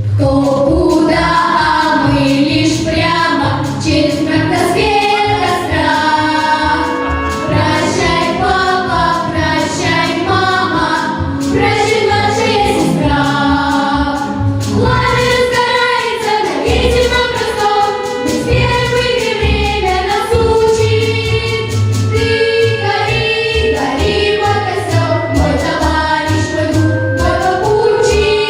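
Choir singing a song over instrumental accompaniment.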